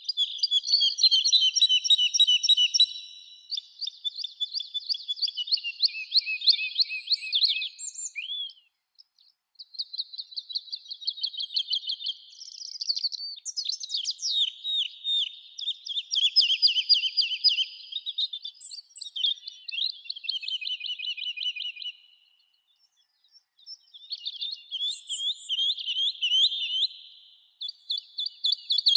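Songbirds singing in a forest: long phrases of rapid, high notes, one after another, broken by short pauses about eight seconds in and again past twenty seconds.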